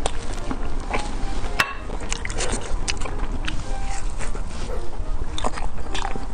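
Close-miked chewing and biting of a pan-fried beef pie, with many sharp crunches of the crisp crust.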